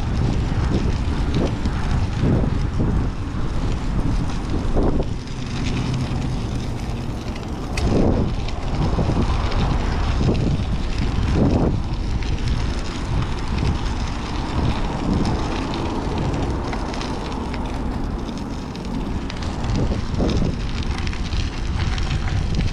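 Wind rushing over the microphone of a camera on a moving bicycle: a steady low rumble that swells now and then in gusts, with road and traffic noise mixed in.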